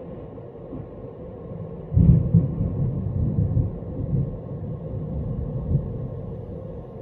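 Thunder rumbling: a low roll starts suddenly about two seconds in and rolls on in uneven surges for about four seconds before fading.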